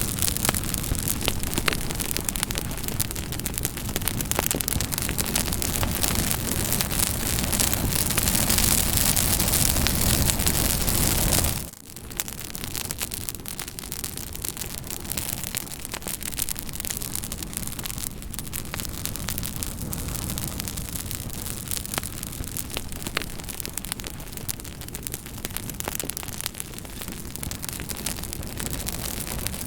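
Campfire crackling, a steady hiss with scattered sharp pops. A louder, denser stretch cuts off suddenly about twelve seconds in, and quieter crackling with occasional pops carries on.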